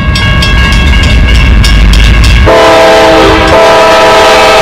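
Train sound effect: a clattering train over a low rumble with a steady whistle tone above it, then about halfway through a loud train horn comes in and holds.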